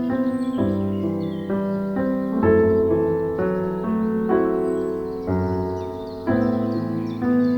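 Background piano music, slow sustained chords changing about once a second, with faint bird chirps behind it.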